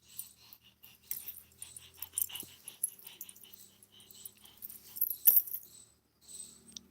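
A dog close to the microphone making a run of short, scratchy, breathy noises, with a sharp click about five seconds in.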